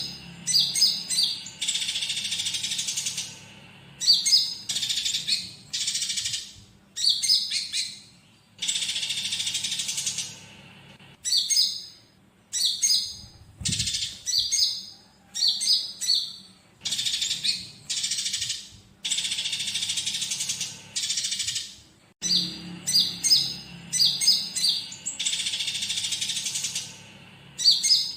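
Konin songbird singing: clusters of sharp high chirps alternating with dry, buzzy trills of about a second and a half, repeating every two to three seconds. The song is laced with phrases of fighting Eurasian tree sparrows.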